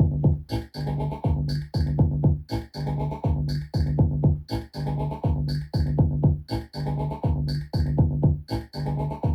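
Eurorack modular synthesizer music: a looping drum-machine beat of kick drums and hi-hats over a repeating synth bass note, the pattern cycling steadily.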